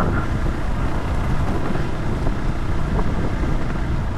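Vehicle engine running steadily, with wind buffeting the microphone.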